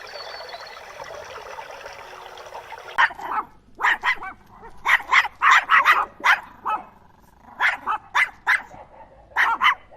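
A dog barking over and over in short sharp barks, starting about three seconds in and coming in quick clusters with brief pauses between them. Before the barking starts there is a steady rushing noise.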